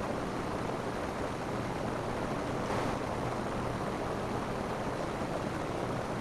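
Rain falling steadily on a roof, an even hiss with a brief swell a little under halfway through.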